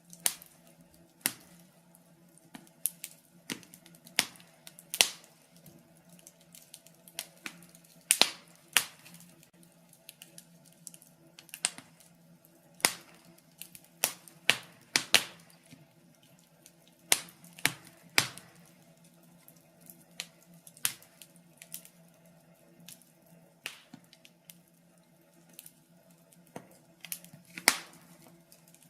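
Wood fire burning in a fireplace, crackling with sharp, irregular pops and snaps over a faint steady hum.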